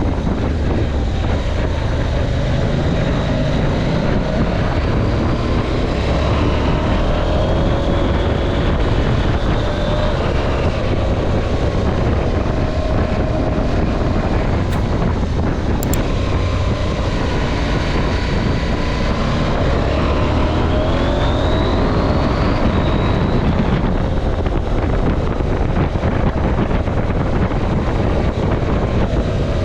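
KTM 790 Adventure's parallel-twin engine under way, its pitch rising and falling several times as the throttle opens and closes through the bends, over a steady rush of wind on the microphone.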